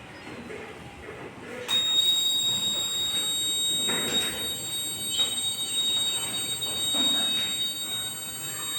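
A steady, high-pitched electric tone from the model truck switches on about two seconds in and holds without change, with a few soft knocks as the model is handled.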